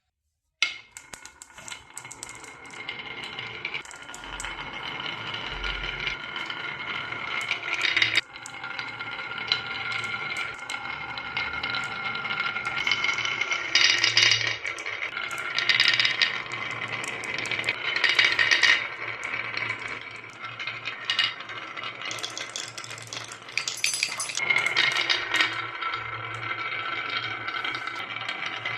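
Many glass marbles rolling and clattering together down a marble track, a continuous ringing rattle with louder surges of clinks. It starts suddenly under a second in.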